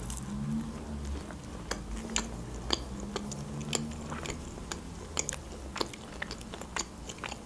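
Close-up mouth sounds of someone biting into and chewing a piece of homemade mini pizza, with many small, irregular wet clicks.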